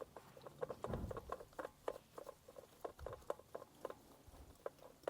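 Irregular light taps and clicks, several a second, with a heavier low thump about a second in.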